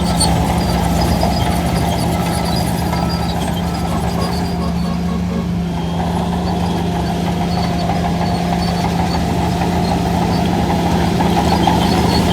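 A heavy diesel engine of earthmoving machinery running steadily at a constant pitch, with faint, intermittent high metallic squeaks.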